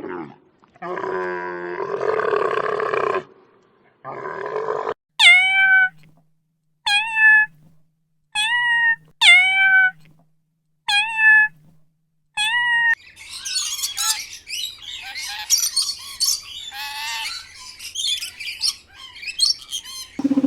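A string of domestic animal calls: two longer calls, then six short, high calls repeated about every second and a half, then several seconds of busy chirping and chattering.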